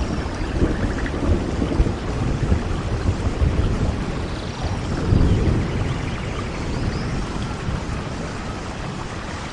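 Steady rain falling as an even hiss, over a low rumble that swells about five seconds in.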